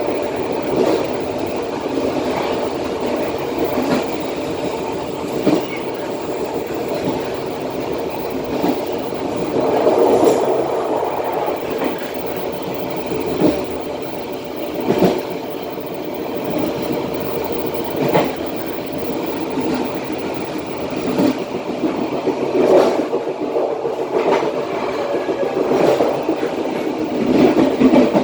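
Passenger train running along the track, heard from the rear of the last carriage: a steady rolling rumble of wheels on rail, with single wheel knocks every few seconds at irregular spacing.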